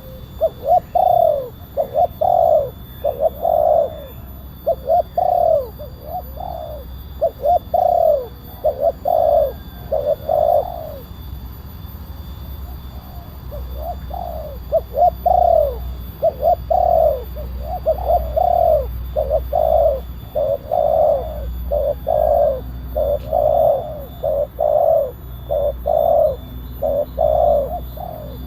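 Spotted dove (tekukur) cooing over and over, deep coo notes in quick runs, with a pause of a few seconds near the middle. A steady low hum runs beneath.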